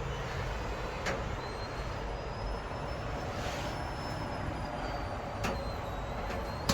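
Freight train rolling, heard from aboard a car: a steady rumble with a few sharp clanks, one about a second in, another about five and a half seconds in and one near the end, and a faint thin high squeal running under it.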